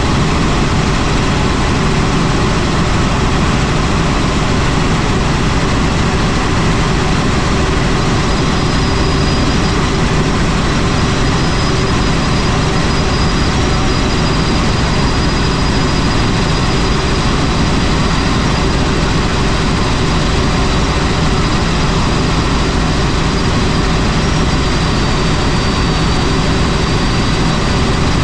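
Helicopter running steadily: a dense, even noise of rotor and engine with a low hum, and a faint thin high whine above it.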